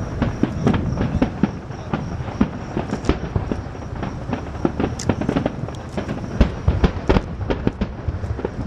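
Fireworks display: aerial shells bursting in a dense, irregular run of bangs and crackles, several a second, over a steady low rumble.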